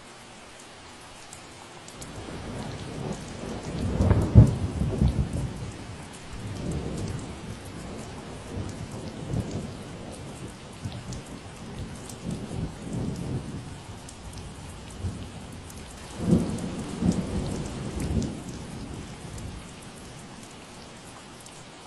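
Steady rain falling, with thunder rumbling low in long rolls over it. The loudest rolls swell about four seconds in and again about sixteen seconds in.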